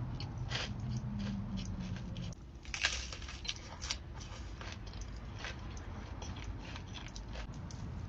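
A person chewing and biting crunchy food close to the microphone, with many short crackling crunches and one loud crunchy bite just under three seconds in.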